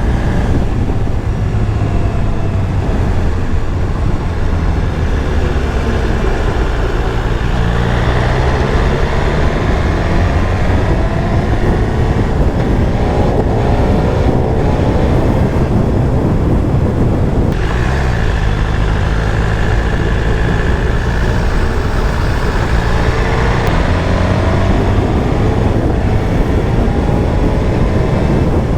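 BMW S1000RR's inline-four engine pulling away and accelerating through the gears. Its pitch rises in several sweeps, with a sharp drop at each upshift, about halfway through the clip, over steady wind and road rumble on the helmet camera.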